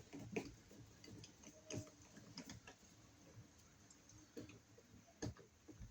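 Faint, irregular clicks and ticks of a screw being turned with a screwdriver into an electrical outlet box extension.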